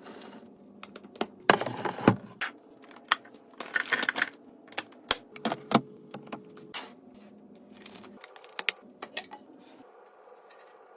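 Irregular clicks, taps and rustles of plastic containers and packaging being handled and set down during a fridge restock, busiest in the first half, with a few more taps later on.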